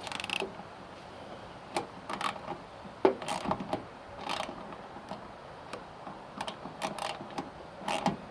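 Small ratchet socket wrench clicking in short, irregular runs as a wing mirror's nut is tightened.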